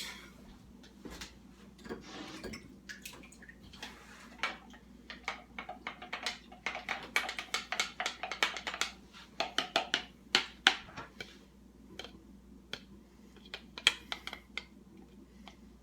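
Spoon stirring a condiment mix thinned with water, clinking and scraping against its dish in quick, irregular taps that come thickest through the middle.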